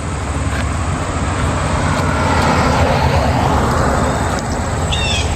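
A car passing by on the road: its tyre and engine noise swells to a peak about two to three seconds in, then fades.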